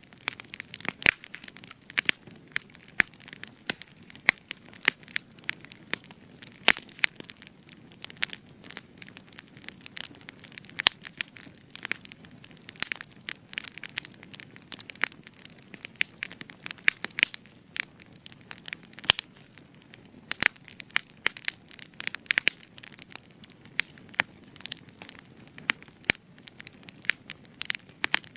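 Fire crackling and popping: many irregular sharp snaps, several a second, over a soft low hiss of the flames.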